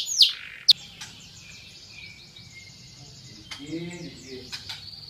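Domestic canary singing: a loud run of rapid, repeated falling chirps that ends about a third of a second in, one sharp note, then softer twittering and trilling.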